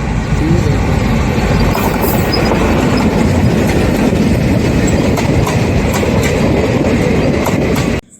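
Diesel-hauled express train passing close by, a loud steady rumble of wheels on the rails with clickety-clack over the rail joints. It cuts off suddenly near the end.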